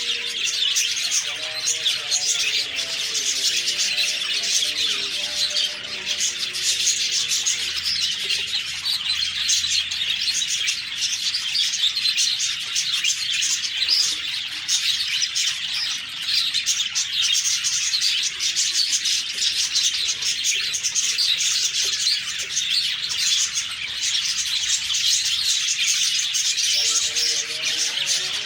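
A flock of budgerigars chirping and warbling without a break, a dense overlapping chatter of high, quick notes.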